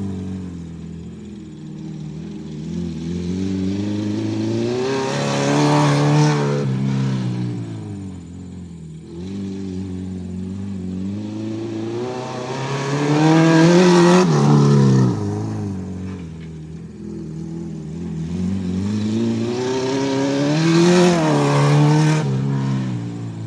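Acura RSX's four-cylinder engine revving up and easing off in three cycles, its pitch climbing to a loud peak about every seven or eight seconds.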